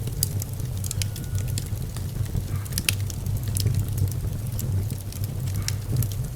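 Wood fire burning in a fireplace, with sharp crackles and pops scattered irregularly over a steady low rumble.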